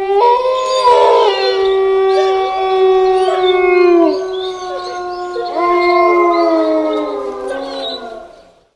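Several canines howling together: overlapping long howls at different pitches, each held and then sliding down at its end, with a new round of howls starting about five and a half seconds in before the chorus fades out.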